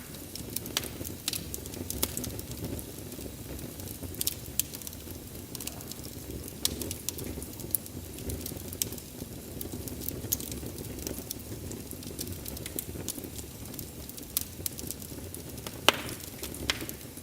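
Wood fire crackling: irregular sharp pops and snaps over a steady low rumble of the flames, with a couple of louder pops near the end.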